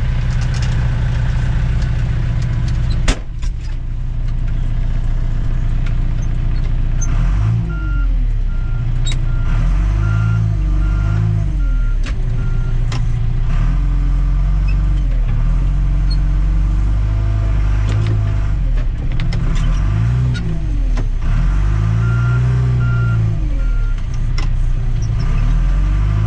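Tractor-loader-backhoe engine working, its pitch rising and falling again and again as the machine loads and moves snow. A backup alarm beeps in two stretches. There is one sharp knock about three seconds in.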